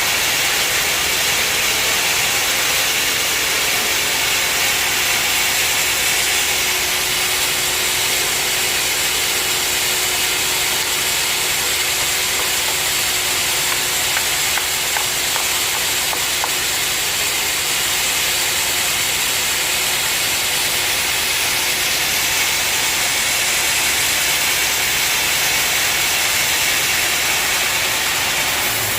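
Band sawmill running steadily, a loud even hiss with a faint steady hum underneath that fades about halfway through.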